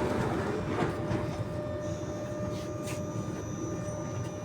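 Inside an NS-93 metro train car: a steady hum of the train's equipment and running noise with a constant low tone, and a faint high whine that comes in about two seconds in.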